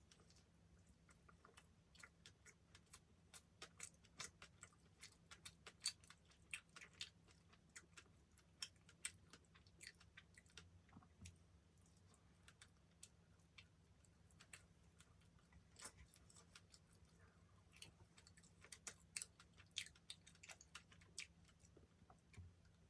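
Close-miked chewing: faint, irregular wet mouth clicks, coming thickly in two runs with a lull in between.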